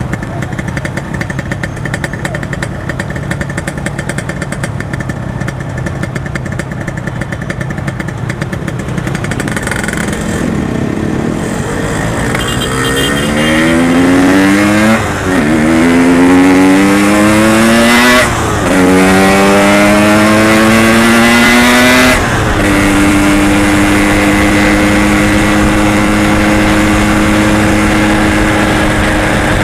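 Yamaha RX-King two-stroke single-cylinder motorcycle engine running at low revs, then accelerating through the gears: the pitch climbs and drops three times at the upshifts, then settles into a steady cruising note.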